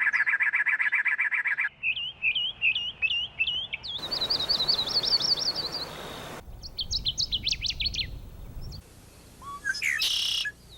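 Several different birds' songs and calls in quick succession, each cut off abruptly and replaced by the next every two seconds or so: a fast trill, then strings of quick repeated chirps, then sharp up-and-down notes.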